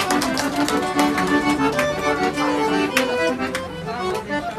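Accordion (sanfona) playing an instrumental melody between sung verses: held notes moving in a tune, with short sharp rhythmic accents.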